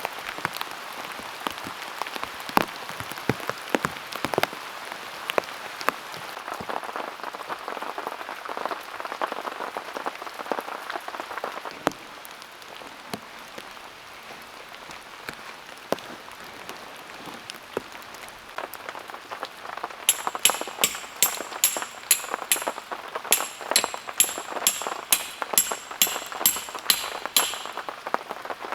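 Heavy rain falling, with many large drops striking irregularly. For several seconds near the end, a run of sharp, ringing ticks comes about two or three a second over the rain.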